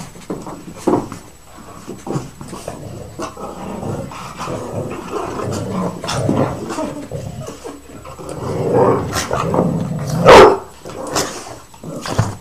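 Several dogs play-fighting, growling and barking on and off, with one much louder sharp bark about ten seconds in.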